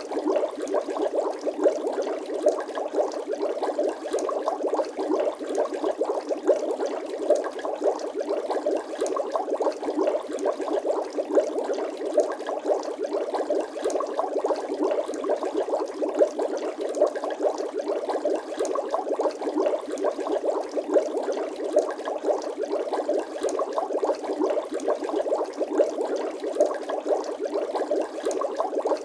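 Bubbling water sound effect: a steady, dense stream of small bubbly pops, many a second.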